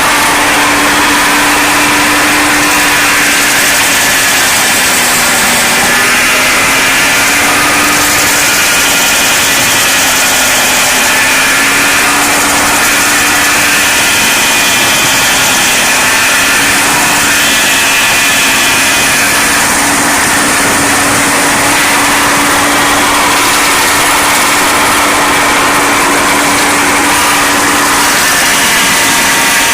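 John Deere 5225 tractor's diesel engine running hard to drive a large PTO-driven stump grinder, with a dense whirring and grinding noise over the engine note. The engine's pitch dips slightly a few times as it takes load; the owner calls the tractor underpowered for this grinder.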